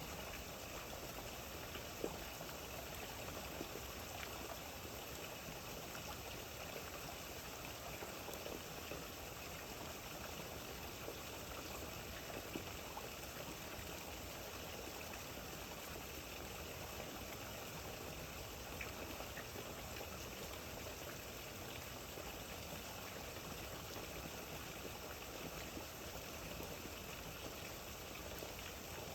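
Steady rain falling, an even hiss with a few sharper drop taps here and there.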